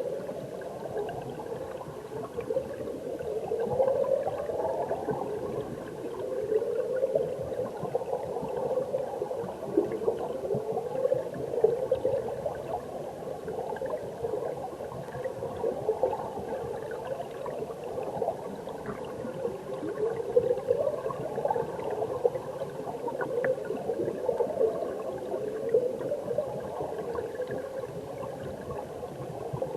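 Mountain stream current heard underwater: continuous bubbling and gurgling, with short rising gurgles every couple of seconds.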